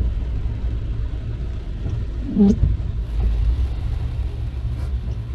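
Steady low rumble of tyres and road noise heard inside a car on a wet road. About two and a half seconds in, the windscreen wiper makes one sweep with a short squeaking judder, from wiper blades that drag stiffly on the glass.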